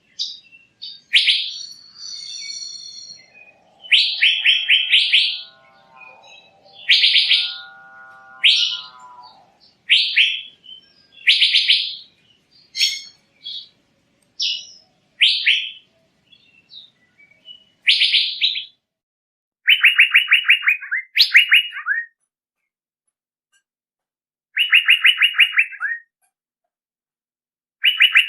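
Male Asian fairy-bluebird (cucak biru) calling, used as a bird-trapping lure call: short, rapid trilled phrases repeated every couple of seconds, with gaps of a second or two between them. A second, lower-pitched call sounds twice in the first third.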